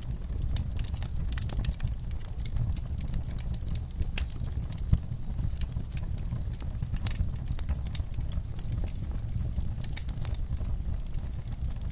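Wood fire crackling in a fireplace: irregular sharp pops and snaps over a steady low rumble of the flames, with one louder pop about five seconds in.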